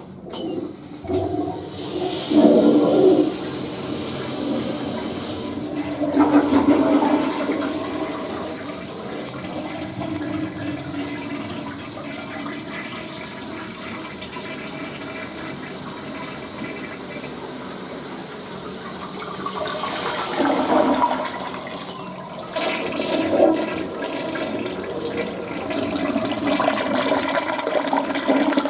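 Western-style toilet flushing: water rushes and gurgles through the bowl with loud surges in the first few seconds, settles into steady running water, then surges again about twenty seconds in as the flush and refill continue.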